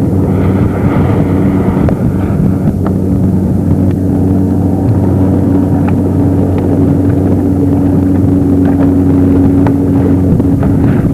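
Motorboat engine running at a steady speed, a constant loud hum, with water and wind noise around it.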